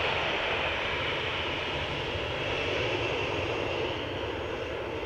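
Airliner engines running loudly, a steady rushing roar that eases slightly near the end.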